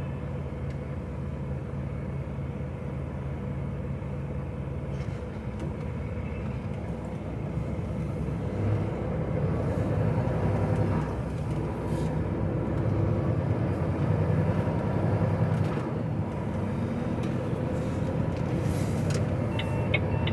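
Lorry's diesel engine running, heard from inside the cab: a steady low hum that grows louder and busier from about five seconds in.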